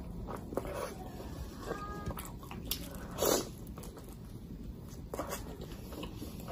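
Close-miked eating: soft, wet chewing and lip smacks from luchi soaked in curry being eaten by hand, with a louder wet smack about three seconds in.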